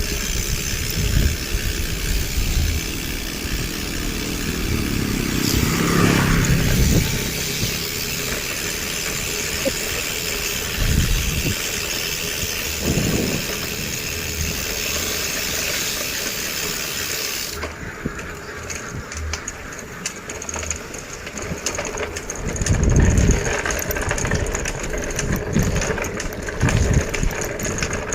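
Road traffic heard from a bicycle: a motor vehicle, likely a motorcycle, passes about six seconds in, its pitch falling as it goes by, with further low engine rumbles later. A steady hiss underneath drops away a little past halfway.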